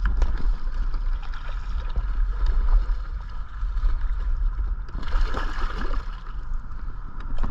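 Steady low rumble of wind on the microphone over water noise around a small fishing boat, with a short splashy burst about five seconds in.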